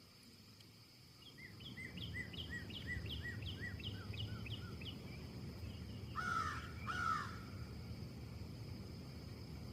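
Wind in the trees picks up about a second in. Over it, a bird gives a quick series of chirps, about four a second and dropping in pitch near the end, then two crow caws about a second apart. A steady high-pitched tone runs underneath.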